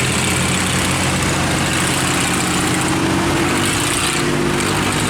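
Heavy boat engines of barges and riverboats running hard under throttle: a steady low drone of several tones over a constant rushing noise.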